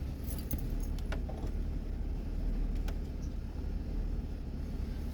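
2006 Ford Taurus V6 idling steadily with six new spark plugs and wires fitted to cure a misfire, with a few light clicks and rattles of small hard parts in the first three seconds as an OBD scan tool is plugged in.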